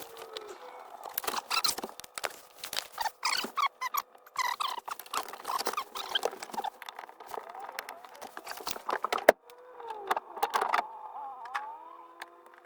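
Hands working on a motorhome dashboard: a run of irregular clicks, knocks and squeaks of trim and parts being handled and worked loose, with one sharp click about nine seconds in.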